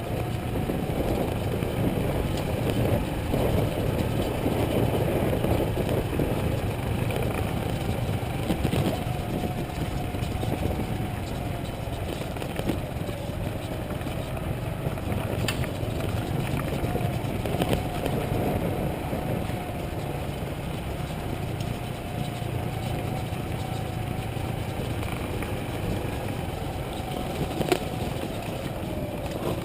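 Motorcycle engine running steadily under way, its pitch sagging a little and coming back twice, over a dense rumble of road and wind noise.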